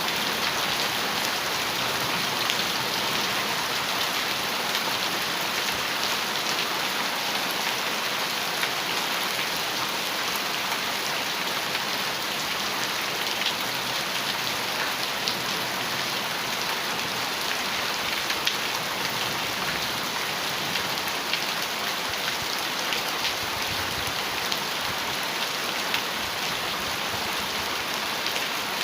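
Heavy rain falling steadily on a metal roof, with scattered sharper drop ticks through the steady hiss.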